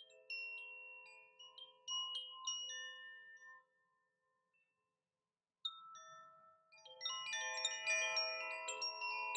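Chimes ringing: a few scattered strikes that ring and fade, then a pause of near silence about four seconds in. A few more strikes follow, and from about seven seconds on many chimes ring together in a dense shimmer.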